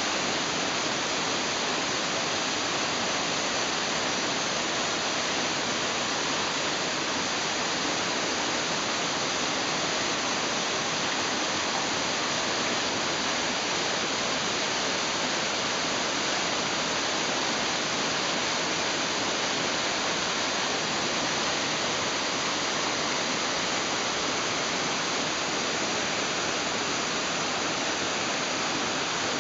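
Small waterfall of hot-spring source water falling and splashing: a steady, unbroken rush of water.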